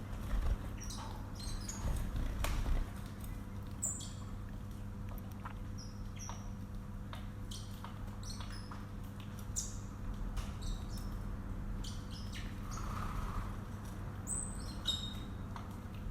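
Pet birds giving many short, high chirps and calls at irregular intervals, over a steady low hum.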